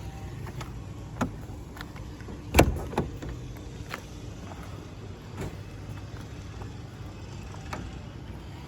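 1926 Voisin's sleeve-valve engine idling steadily, with a few sharp knocks and clicks over it, the loudest about two and a half seconds in.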